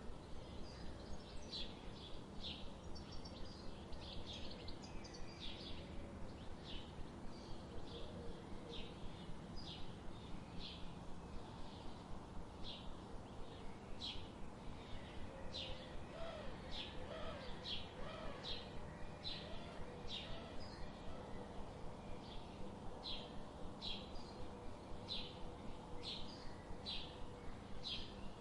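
Small birds chirping: short, high chirps repeated about one to two a second, over a steady low background hiss, with a few fainter lower warbling notes in the middle.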